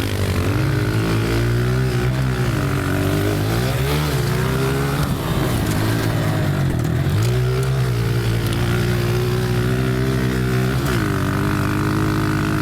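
Honda CRF125 pit bike's single-cylinder four-stroke engine being ridden hard, its note climbing and dropping every couple of seconds as the throttle is opened and shut through the berm turns.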